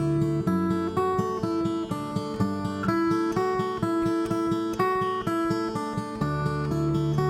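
Acoustic guitar playing an instrumental intro: a steady picked pattern of notes over a bass note that changes every few beats.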